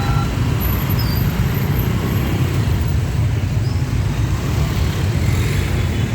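Busy road traffic with a steady low engine rumble.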